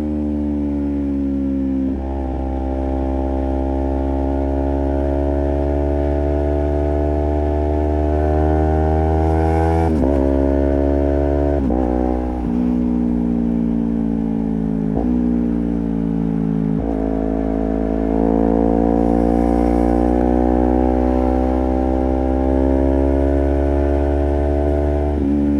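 Honda CBR250RR's parallel-twin engine through a Project 79 slip-on exhaust, riding along: the revs climb steadily in each gear and drop sharply at several gear changes.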